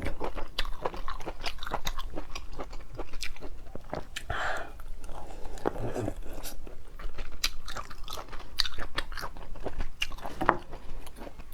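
Close-miked eating of a crab leg: the shell cracking and crunching between the teeth, with chewing, as a dense run of sharp irregular clicks.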